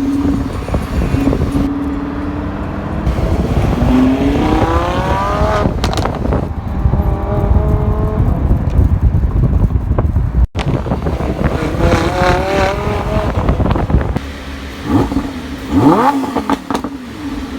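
Lamborghini Huracán's 5.2-litre V10 engine running at a steady note, then accelerating hard several times. Its pitch climbs through the revs and drops sharply at the gear changes, with a few sharp exhaust pops around the first shift. The sound cuts out for an instant about ten seconds in, and a final steep rev near the end is the loudest moment.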